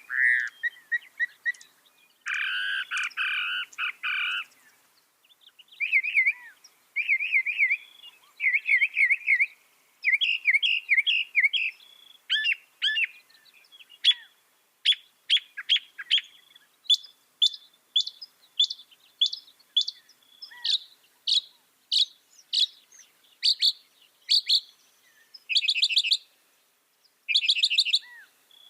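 Mockingbird singing a long run of varied phrases, each repeated several times before it switches to the next: a harsh buzzy phrase, then warbled trills, then a long series of sharp notes given about twice a second.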